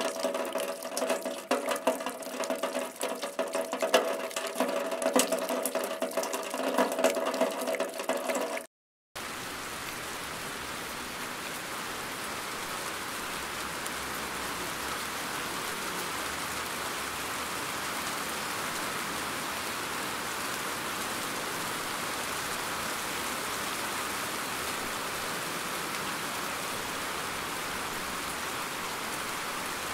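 Dense water drops pattering with a ringing, pitched tone, cut off after about nine seconds. After a brief gap, steady, even rainfall follows.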